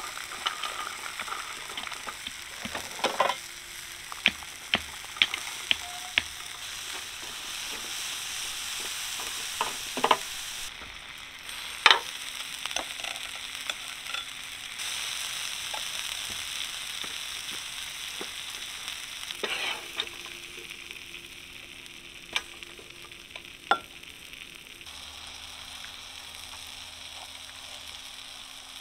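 Food sizzling as it fries in a pan, with sharp clicks and scrapes of a utensil against the pan scattered throughout as it is stirred.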